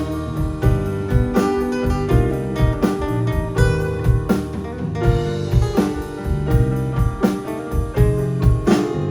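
Live band music: plucked guitar over a drum kit, with sharp drum hits at a steady beat.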